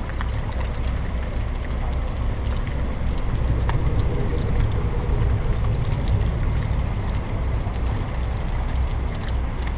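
The catamaran's motor runs steadily as the boat moves out of a lock, giving a continuous low rumble under a broad hiss.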